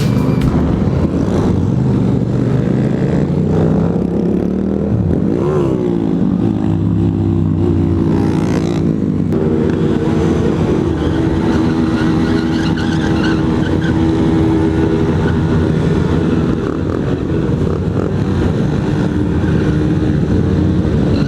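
Motorcycle engine running under way, its pitch swinging up and down about five to six seconds in as the throttle changes, then holding steadier.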